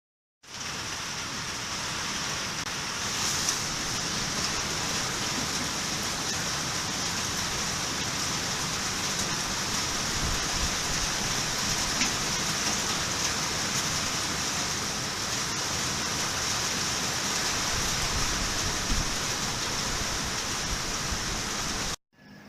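Steady rain falling, an even, dense rushing noise with no let-up; it cuts off suddenly near the end.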